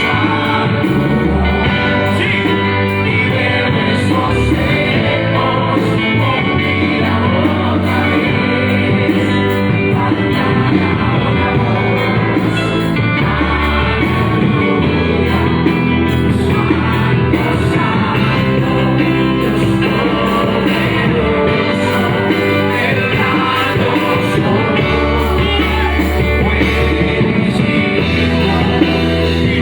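Live worship band playing a rock-style praise song with drum kit, bass and guitar, with singing over it.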